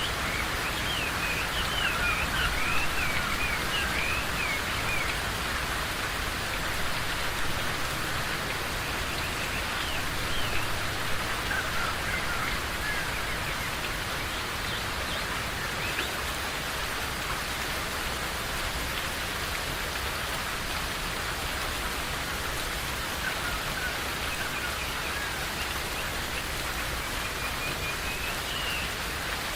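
Steady rain falling, with birds chirping now and then: a run of chirps in the first few seconds, a few more around ten seconds in and again near the end.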